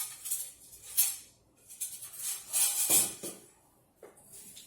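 Food packaging and containers being handled: irregular bursts of rustling and rattling, loudest about two and a half to three seconds in.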